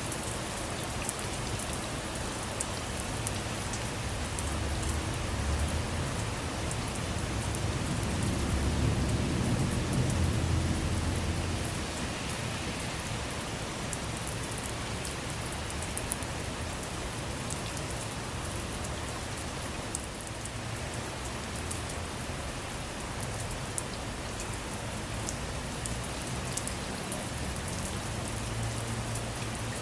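Steady rain falling on a car's roof and windows, with scattered sharp drop hits. A low rumble of distant thunder swells and fades between about 4 and 12 seconds in.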